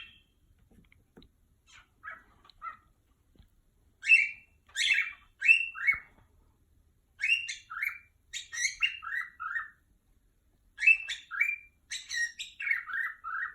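Pet bird calling in runs of short, falling chirps, three to six at a time with short pauses between, growing busier toward the end. It is agitated calling that the owners take for yelling at the wall at something they cannot see.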